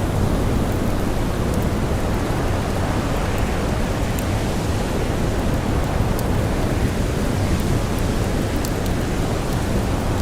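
Steady, dense blizzard wind blowing, with scattered small sharp crackles of a wood campfire over it.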